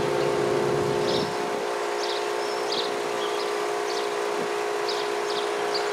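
Federal Signal Model 5 outdoor warning siren sounding a steady, unwavering multi-tone note that neither rises nor falls; the siren is described as having failed. Birds chirp over it, and a low rumble fades out about a second in.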